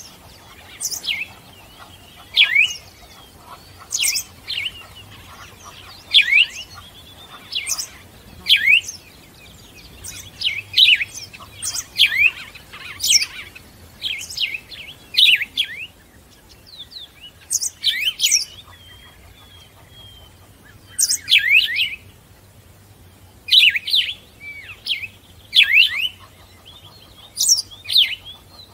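A bird chirping over and over: short, sharp, falling notes, often in twos and threes, coming every second or two.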